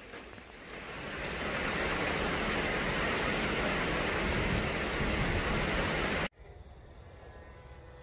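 Steady hiss of rain falling outdoors. It swells over the first second or so, holds level, then cuts off abruptly a little over six seconds in, leaving a much quieter steady background.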